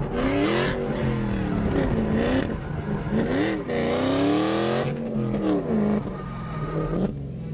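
A drift car's engine revving up and down over and over, with the tyres squealing and hissing in bursts as the car slides.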